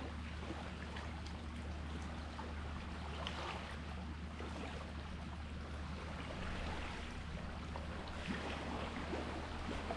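Sea water lapping and washing gently at the shore, a steady wash full of small crackles and splashes, over a steady low hum.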